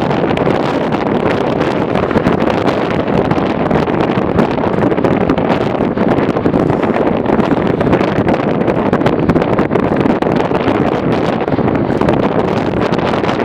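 Strong wind buffeting the microphone: a loud, steady rushing noise with no clear pitch.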